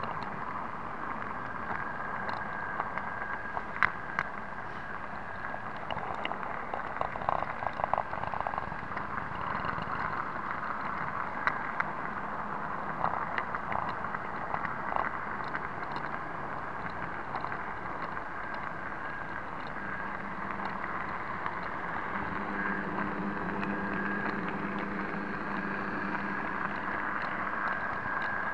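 Small electric motor and wheels of an 009 narrow gauge model diesel locomotive running steadily, with a thin high whine and irregular clicks and ticks from the wheels on the track. A lower hum joins in about two-thirds of the way through.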